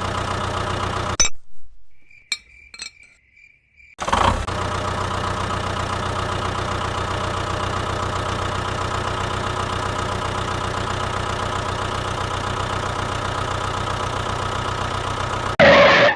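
Small electric motor of a homemade toy water pump running with a steady hum. It stops for about three seconds near the start, with a few faint clicks, then runs steadily again.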